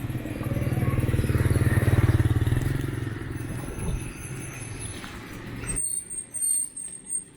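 A motorbike engine passing close by, swelling to its loudest about two seconds in and then fading, before it stops abruptly near the end.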